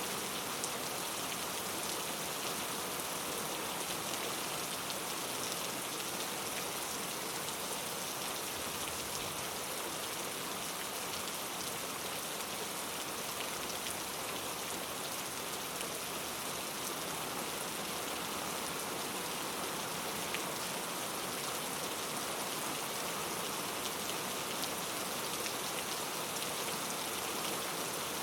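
Steady rain falling in a forest, an even hiss with scattered drops pattering on leaves.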